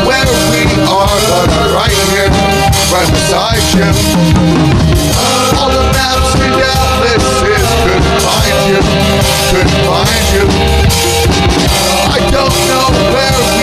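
Band music with no singing: a full drum kit with bass drum and snare keeps the beat under a pitched lead line that bends up and down.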